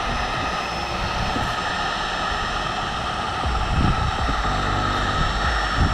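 Heat gun blowing steadily with a whining fan, shrinking heat-shrink tubing over a wiring connection.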